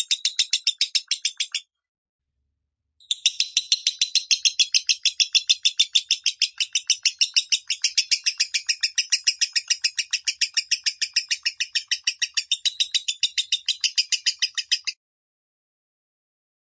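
Lovebird singing in the high-pitched 'minor' voice: fast, evenly repeated chirps, about five a second. A short burst breaks off, and after a pause of about a second and a half comes a long unbroken run of about twelve seconds that stops suddenly.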